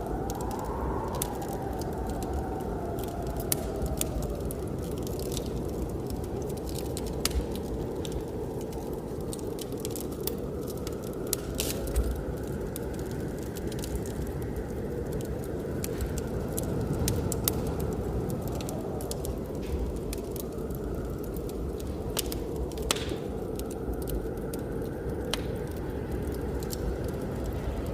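Wood fire crackling with scattered sharp pops, over the steady low rumble of blizzard wind with a faint whistle that rises and falls.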